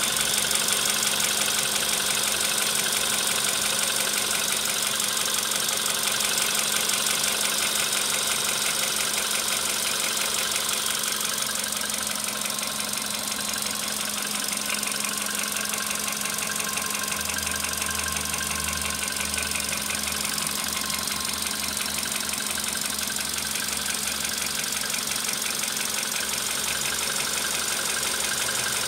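Volkswagen Polo Sedan engine idling with a fast, even knocking. A deeper low drone comes in a little past the middle and drops away near the end.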